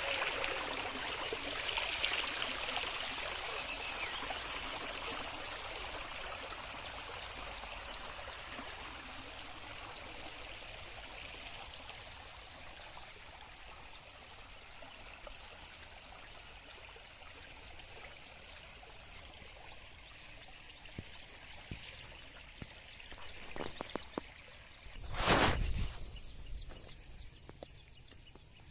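Flowing water fading out under insects chirping, a high steady trill with a regular pulsing chirp over it. Near the end comes one brief loud rush of noise.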